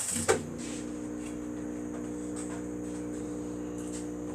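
Dishwasher switched on: a click, then its motor starts and runs with a steady hum.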